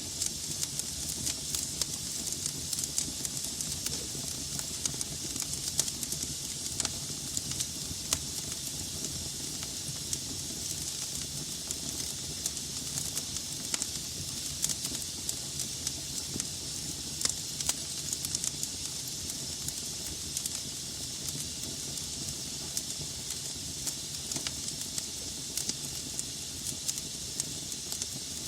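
Burning logs in a fireplace: a steady hiss of flame with frequent irregular crackles and pops, over a soft low rumble.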